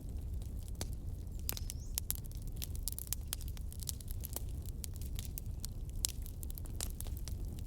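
Wood fire crackling, with many quick sharp pops and snaps over a steady low rumble of burning. A brief faint rising whistle comes in about one and a half seconds in.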